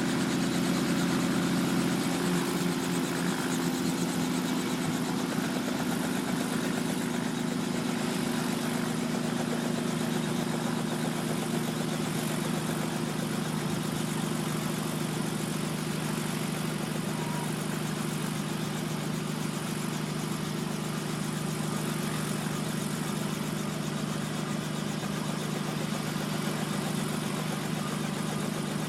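Helicopter running on the ground before take-off: a steady engine drone with a constant low hum that holds level throughout.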